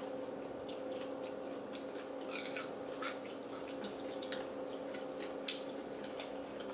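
Two people chewing and biting crunchy fried food coated in crushed Flamin' Hot Cheetos, close to the microphone, with scattered small crunches and crackles. A faint steady hum runs underneath.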